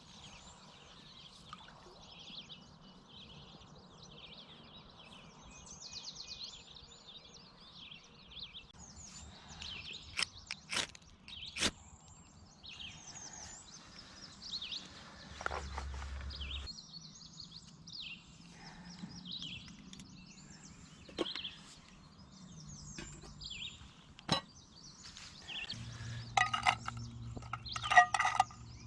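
Several birds chirping and singing in quick, overlapping short calls, with a few sharp clicks and knocks in between. The loudest click comes near the end.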